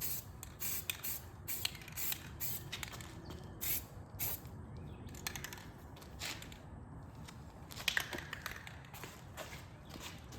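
Aerosol spray paint can sprayed in many short bursts of hiss, one after another with brief pauses between them.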